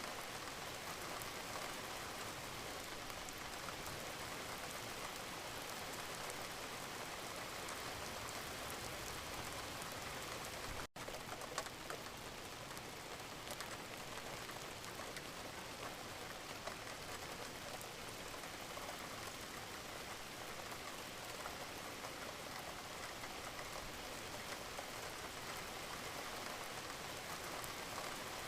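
Gentle, steady rain falling. It cuts out for a split second about eleven seconds in, with a sharp tick just after.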